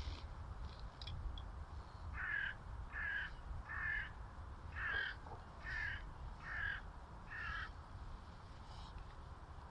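Crow cawing: a run of seven harsh caws, a little under a second apart, over a steady low rumble.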